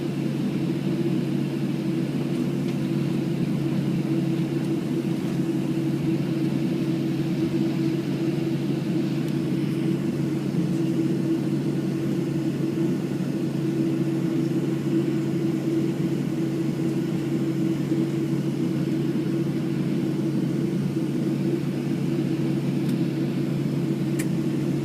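Steady cabin drone inside a Boeing 737-700 on the ground after landing, a constant hum with two low steady tones, and a faint click near the end.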